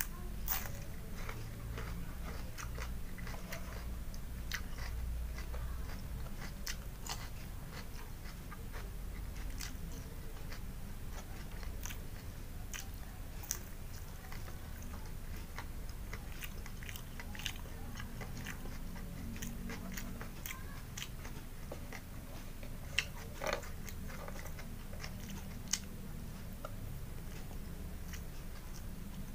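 Close-miked eating: biting and chewing raw vegetables such as bitter gourd and crispy fried food, with scattered sharp crunches and mouth clicks. A low steady hum runs underneath.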